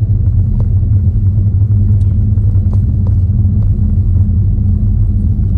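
Steady low rumble and hum of an idling car, heard inside the cabin, with a few faint clicks.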